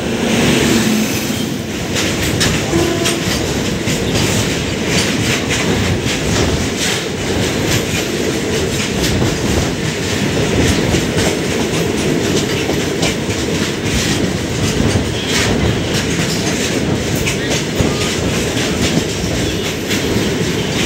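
Passenger express train running at speed, its wheels clattering over the rail joints with a steady rumble and hiss throughout.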